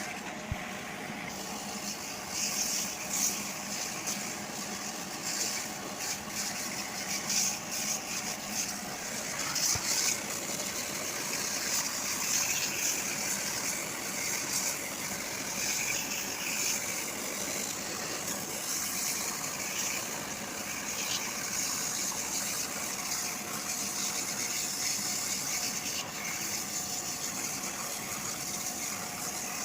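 Pressure washer spraying a steady jet of water, a hiss that swells and fades as the spray moves, with the washer's pump motor running underneath.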